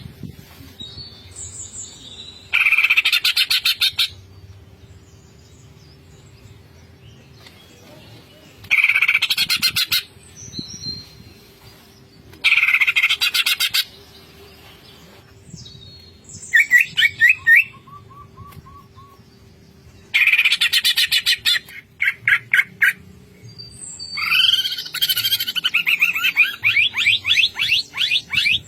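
Cucak ijo leafbird singing: loud bursts of very fast, rattling repeated notes about a second and a half long, separated by pauses of several seconds, with more varied chattering phrases in between and near the end. A faint steady hum runs underneath.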